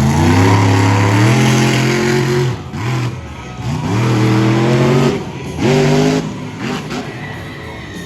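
Monster truck engine revving in three bursts, its pitch climbing on each. The first burst is the longest, about two and a half seconds, and the last is brief.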